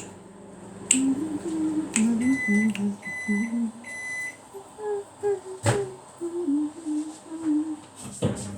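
Microwave oven beeping three times, a short beep each time, with a few sharp clicks around it. A person hums quietly underneath.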